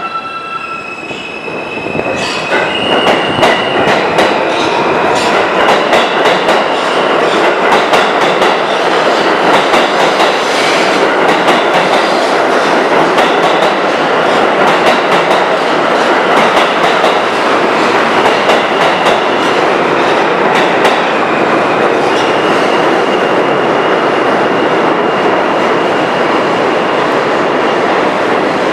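R160A-2 subway train pulling out of the station and picking up speed: a loud, steady rumble of steel wheels on rail with rapid clicks over the rail joints. A high, steady wheel squeal comes in about three seconds in and again from about two-thirds of the way through.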